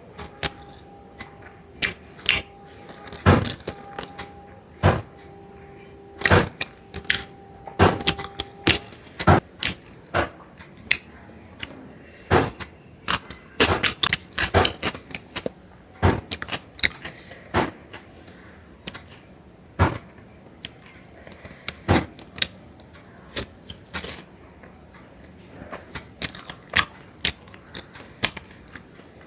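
Close-up eating sounds: irregular sharp smacks and clicks of chewing, one or two a second, some much louder than others.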